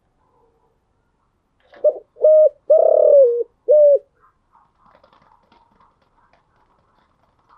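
Spotted dove cooing one phrase of four notes: a brief note, a longer one, a long held note that drops at its end, and a short closing note. Faint chirping follows.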